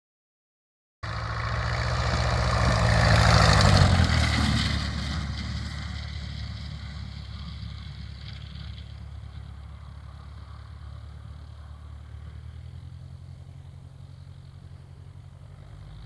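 An engine passing by: it cuts in suddenly after a second of silence, is loudest about three to four seconds in, then fades away steadily.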